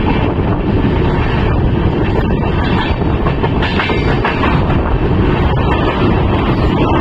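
Passenger train coaches running along the track: a steady rumble of steel wheels on the rails, with a few clacks over rail joints.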